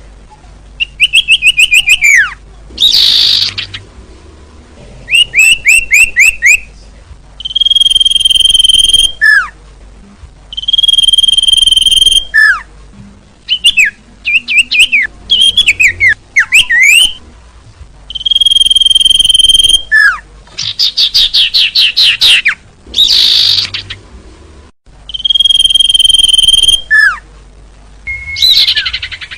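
Recorded songbird lure calls play in a repeating sequence. A steady high whistle held about a second alternates with sharp falling slurs and quick rattling trills.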